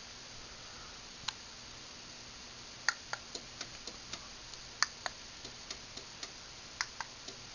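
A string of short, sharp clicks at irregular spacing, one near the start and most from about three seconds in: the lock button on a Craftsman garage door opener's wall control being used, with the opener clicking as it switches its light to signal the lock. A faint steady hum lies underneath.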